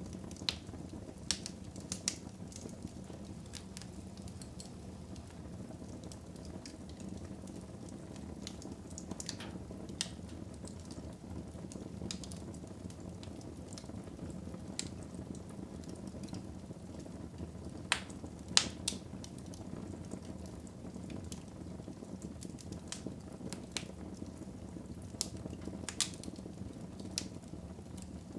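Fire burning in a fireplace: a steady low rumble with irregular sharp crackles and pops, the loudest pair of pops about two-thirds of the way through.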